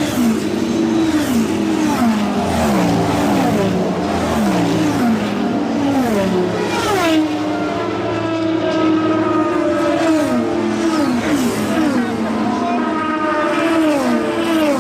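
Race cars passing one after another at speed, each engine note falling in pitch as the car goes by, about one every second.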